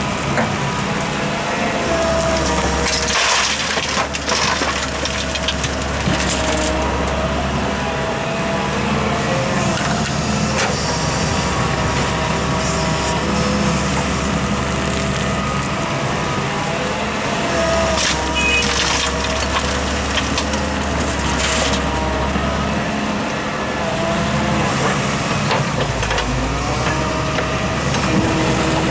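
Diesel earthmoving machinery running steadily under load, with several short rushing bursts of noise during the work.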